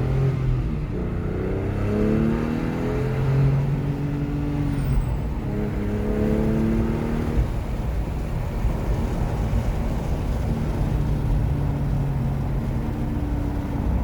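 Porsche 997's flat-six engine pulling under acceleration, its pitch rising through a gear, dropping at a shift and rising again, then settling into steady cruising for the second half.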